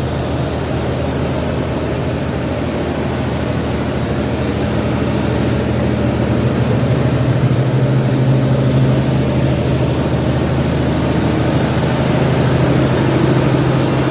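Engine of the push boat driving a river ferry barge, running steadily under load with a loud low drone that grows a little louder about halfway through.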